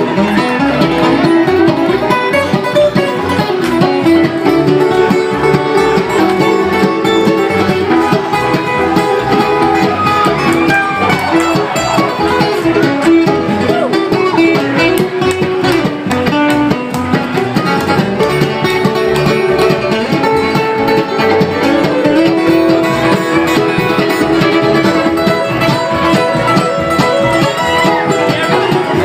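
Live bluegrass string band playing an instrumental break: busy picked acoustic guitar and banjo-like plucked strings over a steady rhythm, continuing without vocals.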